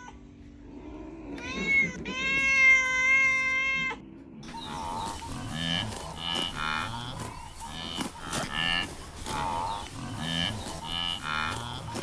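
Animal calls: one long drawn-out call in the first few seconds, then from about four seconds in a busy run of short repeated calls, about two a second.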